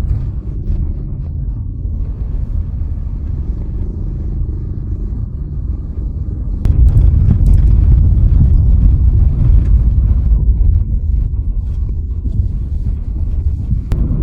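Car driving on the road: a steady low rumble of road and engine noise that grows louder about seven seconds in, with a faint click at that point and another near the end.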